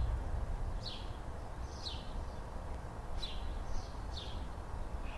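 A bird calling repeatedly in short chirps that slide downward, about one a second, over a low steady outdoor rumble.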